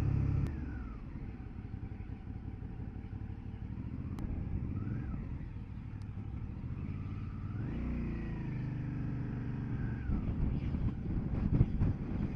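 Motorcycle engine on the move. It eases off about half a second in, rises and falls briefly near five seconds, then climbs in pitch under acceleration from about eight seconds in before dropping away near ten seconds. Wind buffets the microphone near the end.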